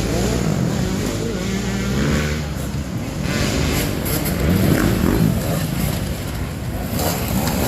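Dirt bike engines running at a hare scramble, revving up and down with the throttle; the pitch swings are clearest in the first two seconds.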